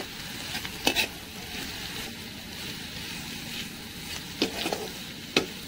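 Potato sticks and dried neem leaves sizzling in oil in a metal wok while a metal spatula stirs them. The spatula scrapes and knocks against the pan twice about a second in and several more times near the end.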